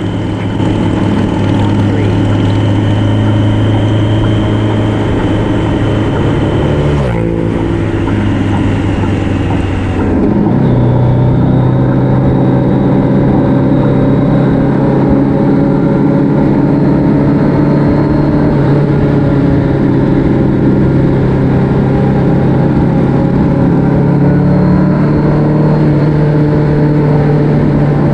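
Motorcycle engine running under way, with wind rush. About seven seconds in the engine note slides down and changes, then from about ten seconds it holds steady and a little louder.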